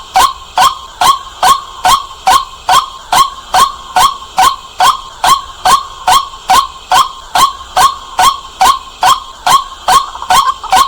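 White-breasted waterhen calling: a loud, rapid, even series of short harsh notes, about two and a half a second, packing slightly closer near the end.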